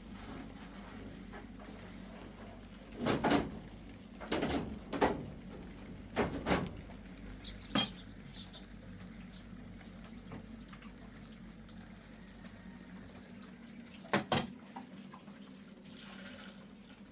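Irregular sharp knocks and clatters, a cluster of them from about three to eight seconds in and a quick double knock near fourteen seconds, over a steady low hum.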